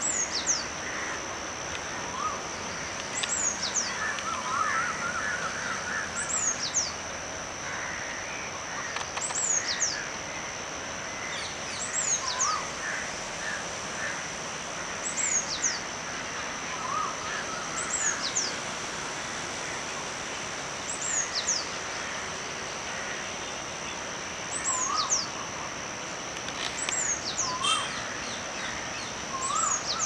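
Small birds calling: one repeats a high, quickly falling double note about every three seconds, and another gives short rising calls lower in pitch every few seconds. A steady high thin hum runs under them.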